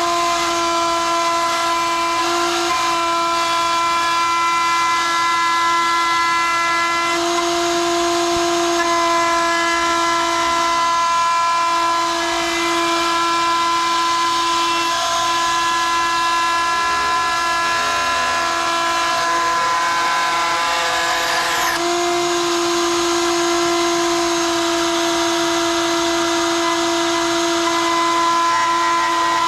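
Router motor whining at high speed while trimming an acrylic (Lexan) guitar-body template, with a hiss of cutting and chips. Its pitch sags briefly a couple of times as the bit bites in.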